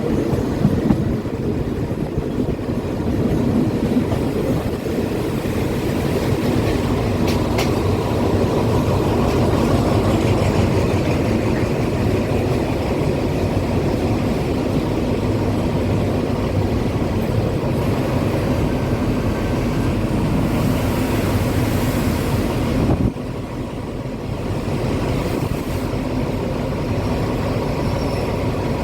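Train running on the track close by: a steady heavy rumble of engine and wheels that drops off abruptly about 23 seconds in, then carries on more quietly.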